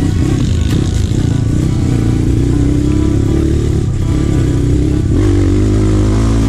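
Trail motorcycle engine running as it is ridden, its pitch rising and falling with the throttle.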